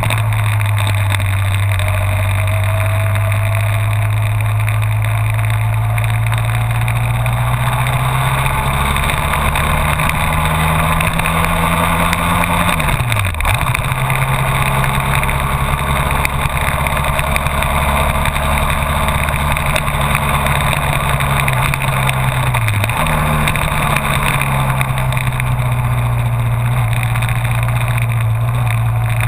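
Honda VFR1200F's V4 engine running under way. Its pitch climbs slowly, then drops sharply and comes back twice, about thirteen and twenty-three seconds in.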